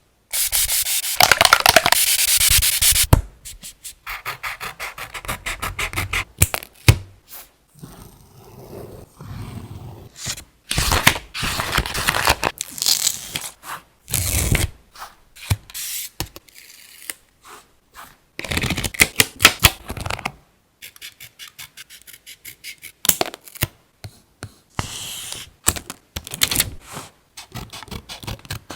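Paper and craft materials handled close to the microphone: rustling, rubbing and scraping in irregular bursts with short taps in between, the longest and loudest burst in the first few seconds.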